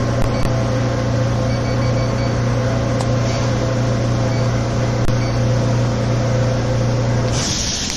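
Steady low electrical hum of a New York City subway car standing in the station, with a few faint clicks. About seven seconds in the hum cuts off and a hiss of air begins.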